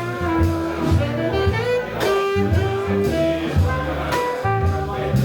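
Live jazz band playing, a saxophone carrying the melody over a walking double bass line.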